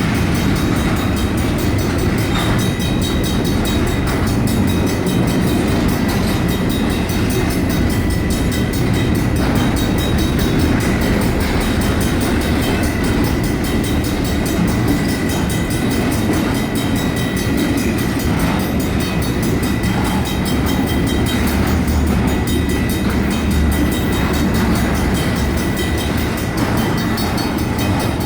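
Union Pacific intermodal double-stack freight train rolling past a grade crossing: a steady, heavy rumble of cars on the rails. Over it, the crossing's Griswold mechanical bells keep ringing.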